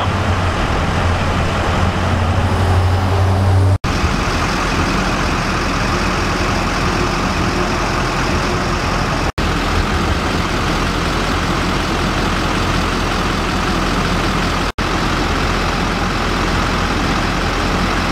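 Heavy fire trucks idling: a steady engine rumble with a low hum that is strongest in the first few seconds, broken by three very brief dropouts.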